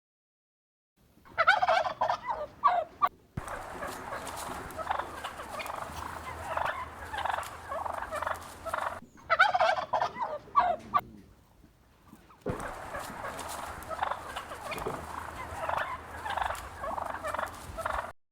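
Turkeys gobbling: two loud, rapid rattling gobbles, one about a second in and one about nine seconds in, over the steady lower chatter of a turkey flock.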